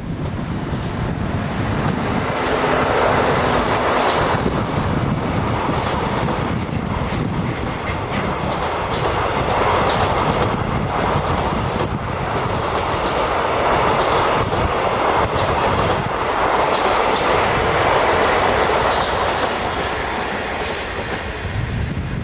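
Freight train running past, its wheels clicking irregularly over the rail joints above a steady, loud rolling rush.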